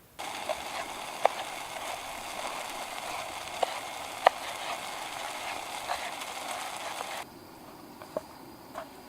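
Pasta cooking in a pot on a camp stove: a steady hiss with scattered pops and crackles, cutting off abruptly about seven seconds in.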